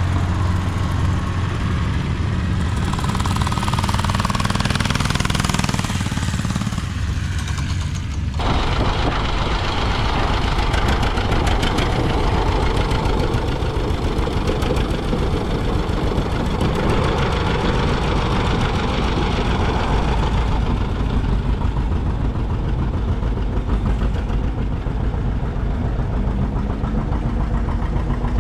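Antique engines running steadily. There is an abrupt cut about eight seconds in, from one engine's low, even hum to a different engine with a denser, rougher sound.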